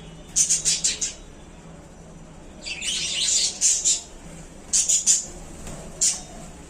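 Budgerigars calling: high, scratchy calls in quick runs, four or five in the first second, a longer chatter around the middle, and a few more single calls toward the end.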